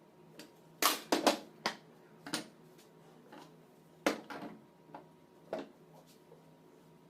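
Irregular sharp clicks and knocks of tools and metal alternator parts being handled during a repair, in two loose clusters of several hits each.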